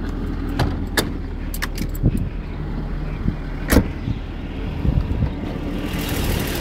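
Jaguar engine idling steadily, running from a cold start, with a few sharp clicks and knocks over it. A brighter hiss comes in near the end.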